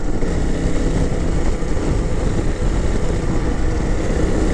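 Honda CRF300L's single-cylinder engine running at a fairly steady speed while being ridden, mixed with steady wind and road noise.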